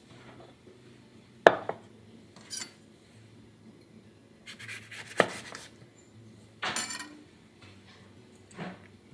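Dishes and utensils being handled: a few sharp clinks and knocks, with a short scraping rustle about two-thirds of the way through.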